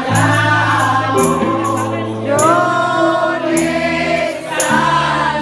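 Live congregational worship music: several voices singing together over sustained bass and keyboard chords, with a tambourine or cymbal struck in an even beat.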